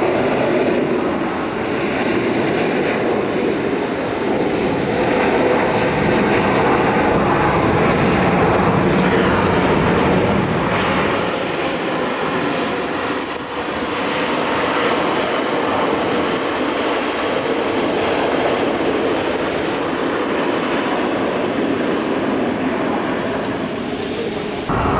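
Jet engines of an Airbus A380 airliner, a loud, steady rushing noise with a brief dip about halfway through.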